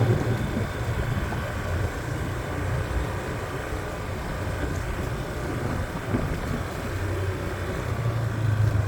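Motorbike engine running steadily while being ridden, a low even hum with road noise.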